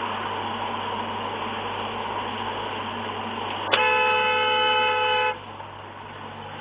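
Steady road noise, then a car horn sounds once, held for about a second and a half, a little past halfway through.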